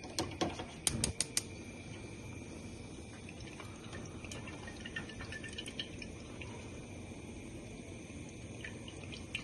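Several sharp clicks in the first second and a half, then cooking oil being poured, with faint dripping.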